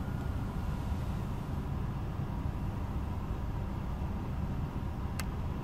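Nissan X-Trail engine idling, a steady low rumble heard from inside the cabin, with a single click about five seconds in.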